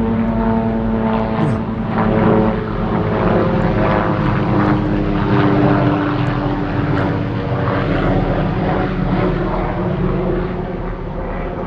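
Propeller aircraft engine droning overhead, a steady hum whose tones slowly shift in pitch as it passes, over a rough rushing noise.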